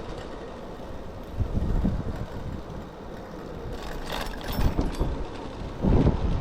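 Typhoon wind buffeting the microphone in uneven gusts while riding a bicycle, a low rumble that swells and drops, with a brief hiss about four seconds in.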